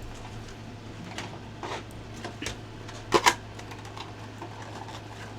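A few light clicks and taps of small items being handled, loudest as a quick double click about three seconds in, over a low steady hum.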